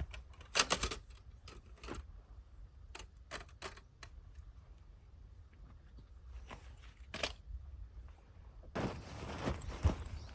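Camping gear being handled outdoors: scattered sharp clicks and clacks, the loudest cluster about a second in. Near the end come rustling and crunching steps on the forest floor.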